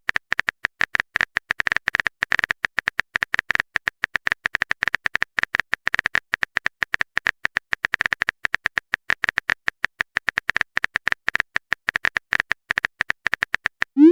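Rapid, irregular clicking like a phone-keyboard typing sound effect, many clicks a second.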